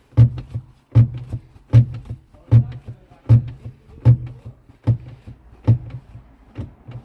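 MG ZS clutch pedal being pumped repeatedly while the hydraulic clutch is bled, a sharp click and a low knock with each stroke, about one every three-quarters of a second. The pedal is starting to come back up but still has only about half its travel: air is left in the system.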